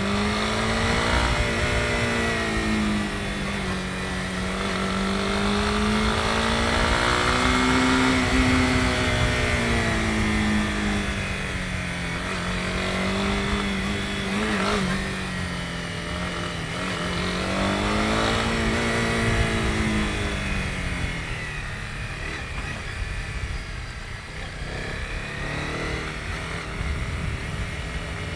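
Honda CB250R's single-cylinder engine running under way, its pitch rising and falling gently every few seconds as the throttle opens and closes. A steady rush of road and wind noise runs underneath.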